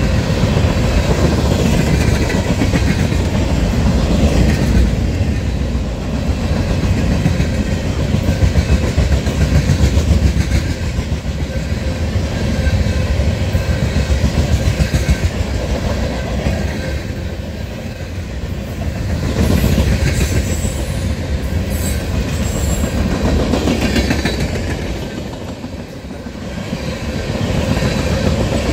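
Freight train rolling past on the near track: a string of open-top hopper cars and tank cars rumbling by, steel wheels clacking rhythmically over the rail joints, the loudness swelling and dipping as the cars go by.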